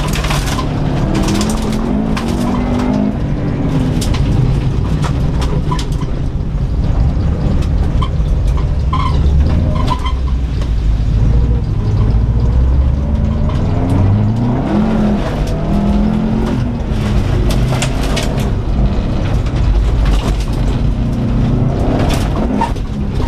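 2004 Subaru Impreza WRX STI's turbocharged 2.5-litre flat-four heard from inside the cabin, revving up and falling back again and again as the car is driven hard. Frequent sharp ticks and knocks run through it.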